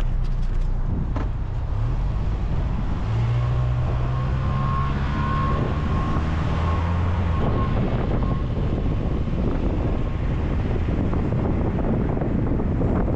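Car driving on the road: the engine note climbs as it picks up speed, holds steady for a few seconds, then gives way to steady road and wind noise.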